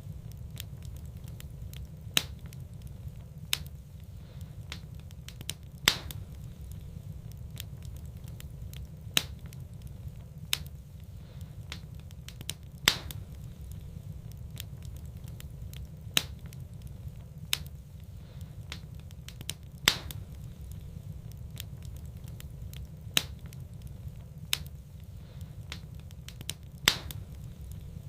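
Fire in a fireplace crackling: sharp, irregular pops about every two seconds over a steady low rumble.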